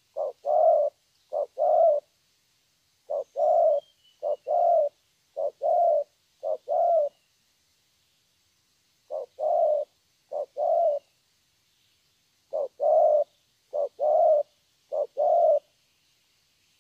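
A young spotted dove cooing: low two-part coos, a short note followed by a longer one, repeated in runs of two to four with pauses of a second or two between runs.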